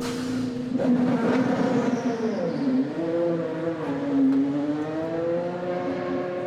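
IndyCar race cars' twin-turbo V6 engines running at speed on the track, the engine note sliding down and back up a couple of times as cars go by, then holding steady near the end.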